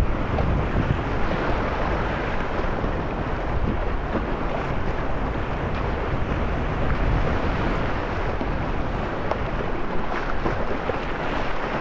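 Steady rush of whitewater rapids, with wind buffeting the microphone.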